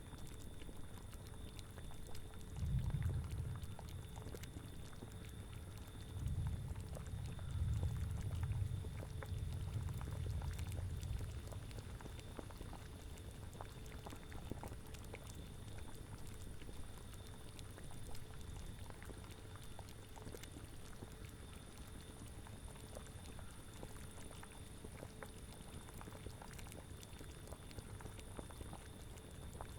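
A cauldron bubbling at a steady boil, a dense run of small pops and gurgles, with low rumbling swells about three seconds in and again from about six to eleven seconds.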